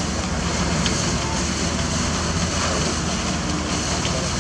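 Heavy diesel machinery running steadily, a low engine hum under a constant hiss.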